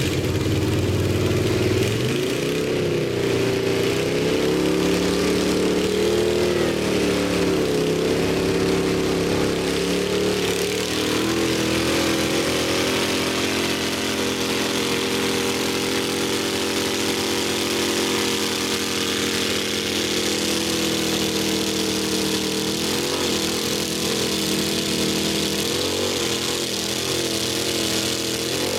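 Pickup truck engines held at high revs under heavy load as two 4x4 trucks strain against each other in a tug of war. The pitch wavers up and down over the first several seconds, settles steadier, then wavers again near the end.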